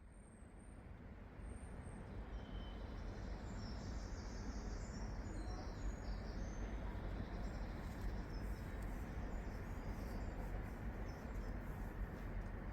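A steady low rumble, rising over the first couple of seconds and then holding, with small birds chirping over it for the first several seconds.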